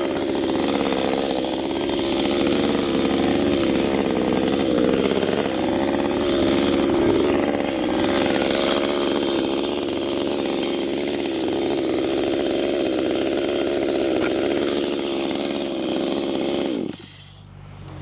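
Chainsaw running loudly, its pitch wavering up and down through the first half, then holding steady before it cuts off suddenly near the end.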